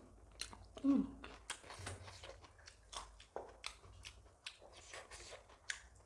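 Close-up eating sounds: chewing with wet mouth clicks and lip smacks. About a second in, a brief falling hum from the voice is the loudest moment.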